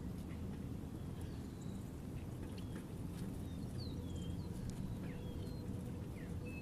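Small birds at a bird feeder calling, with many short, scattered chirps and quick gliding notes, over a steady low rumble.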